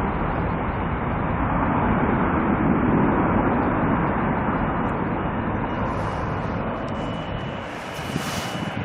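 Jet airliner passing, its engine noise swelling to a peak about three seconds in and then slowly fading. A thin steady whine comes in over the last few seconds.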